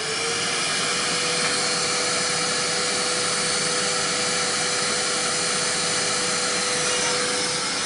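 Vacuum cleaner running steadily with a loud rushing noise and a steady motor whine, the whine rising to full pitch right at the start as the motor comes up to speed.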